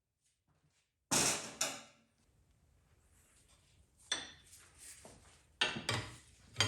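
Hammer blows ringing on the drive bar of an expanding cam bearing tool, driving a cam bearing out of an LT1 small-block's block: two sharp strikes about a second in, another near the middle and a quick pair near the end.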